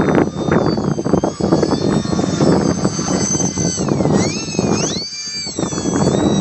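Radio-controlled styrofoam model plane's motor and propeller whining high, its pitch dipping sharply and climbing again about four to five seconds in, over heavy wind buffeting on the microphone.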